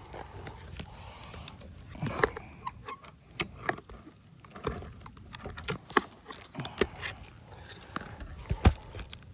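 Irregular clicks, taps and light knocks of hand work on an asphalt shingle roof, with a few sharper knocks standing out.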